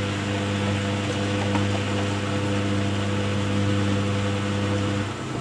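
Hoover WDYNS654D washer dryer filling for its pre-wash: the water inlet valve hums steadily as water rushes in through the detergent drawer, then cuts off abruptly near the end.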